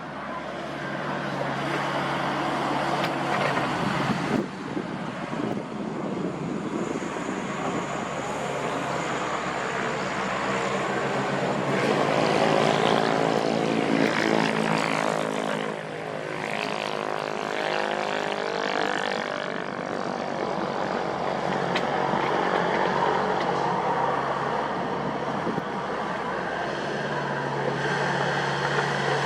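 Diesel engines of a Wacker Neuson 6003 mini excavator and a dump truck running steadily, the engine note rising and falling for several seconds around the middle as the machines take load.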